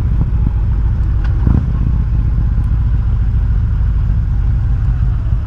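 Harley-Davidson Road King's V-twin engine running steadily while the motorcycle cruises, with a single short tap about a second and a half in.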